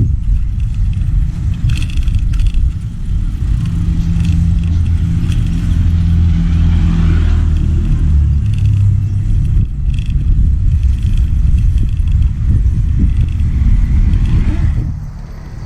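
Steady low rumble of a motor vehicle on the move, with wind buffeting the microphone and an engine hum; it eases off near the end.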